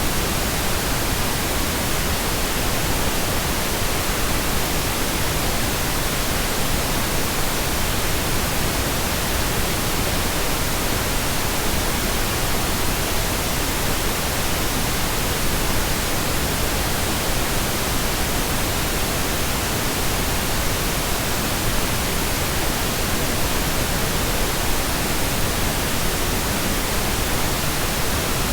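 Steady pink noise: an even, unchanging hiss across the whole range, weighted toward the low end.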